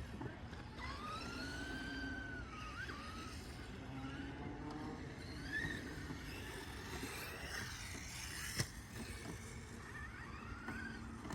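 Electric motor of a radio-controlled Losi Promoto-MX motorcycle whining, its pitch rising and falling with the throttle. A sharp knock comes near the end, typical of the bike landing or hitting something.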